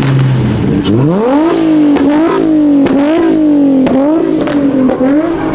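A car engine revving hard: it climbs steeply about a second in, then is held at high revs that rise and fall over and over. A few sharp cracks are heard over it.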